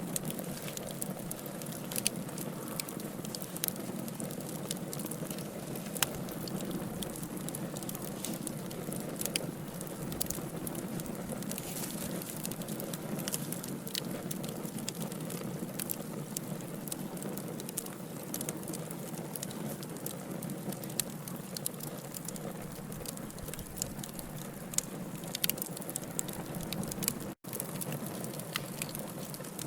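Wood fire burning in a fireplace: a steady low rush of flame with frequent sharp crackles and pops from the logs. The sound drops out for a split second near the end.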